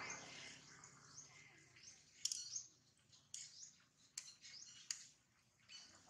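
Faint bird chirps, short high notes that fall in pitch, repeated throughout, with a few sharp clicks standing out.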